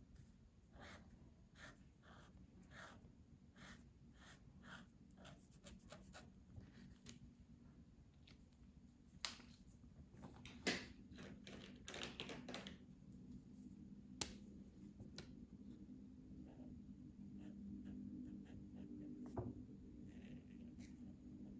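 Faint scratchy strokes of colouring on paper, repeating about once or twice a second, with a few sharper clicks around the middle. A low steady hum rises near the end.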